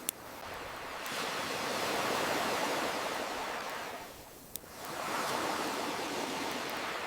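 Ocean waves washing in and receding in slow surges, with a wood fire crackling over them and two sharp pops, one at the start and one about halfway through.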